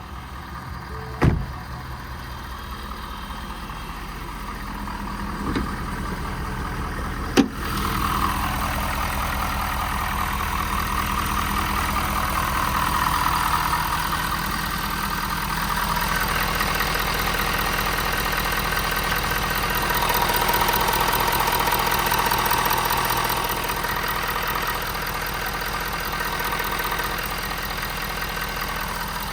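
Ford 6.7 Power Stroke diesel engine idling steadily, with two sharp knocks in the first quarter. From about eight seconds in, a louder steady rushing sound joins the idle.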